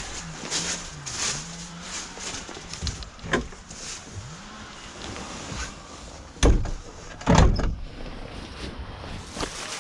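An engine's drone dipping and rising in pitch, broken by a few loud thumps, one about three seconds in and two more around six and a half and seven and a half seconds.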